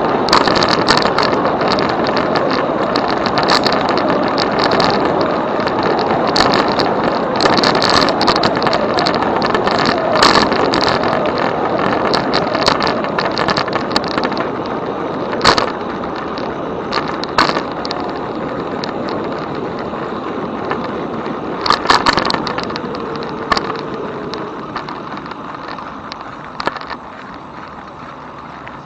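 Steady rush of riding noise from a moving e-bike, wind and tyres on the path, with sharp clicks and rattles now and then as it goes over bumps. The noise grows quieter over the last few seconds.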